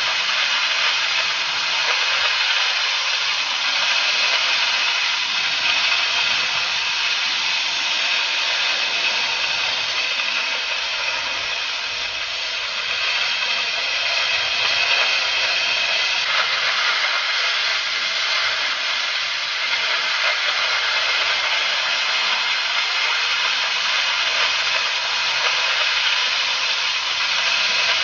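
Oxy-fuel cutting torch on a portable track-type flame cutting carriage, hissing steadily while it cuts.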